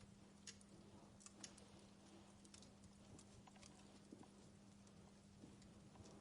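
Wood log fire crackling in a fireplace: faint, irregular pops and snaps a few times a second.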